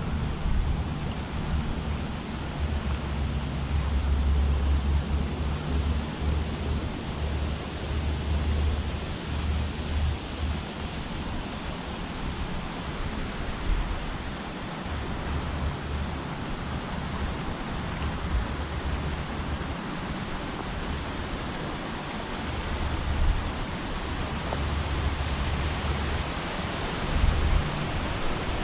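Wind buffeting an action camera's microphone: an uneven low rumble over a steady hiss. A faint high buzz comes and goes in the second half.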